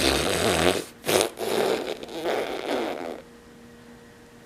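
Raspberries blown with the lips: buzzing bursts of breath with a bit of voice in them, in two stretches, stopping about three seconds in.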